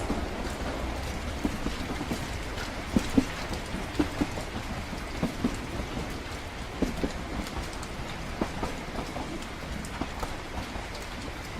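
Rain pattering steadily, with many irregular sharp drop ticks, over a low continuous rumble of a moving train.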